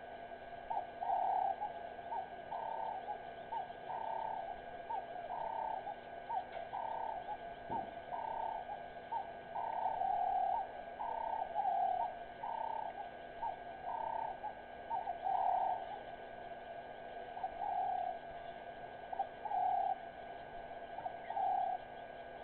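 Birds calling: short, mid-pitched cooing notes repeated over and over, about two a second and often overlapping, over a faint steady hum.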